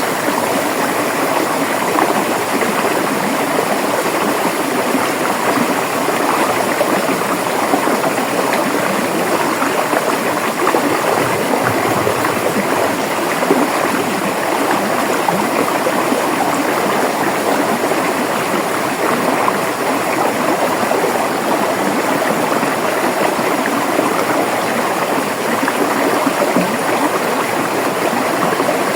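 River water flowing and gurgling over rocks, a steady, even rush with no breaks.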